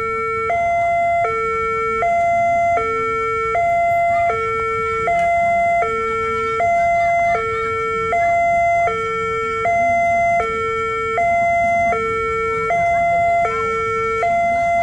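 Electronic two-tone railway level-crossing alarm, steadily alternating a high and a low tone about every three-quarters of a second, warning that a train is approaching.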